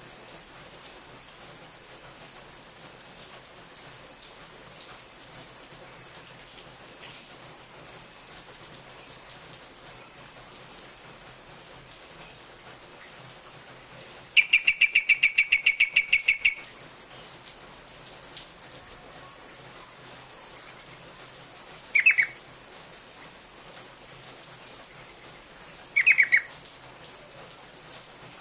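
Yellow-vented bulbul (trucuk) calling: a rapid chattering run of notes lasting about two seconds midway, then two short single calls a few seconds apart near the end, over a steady hiss.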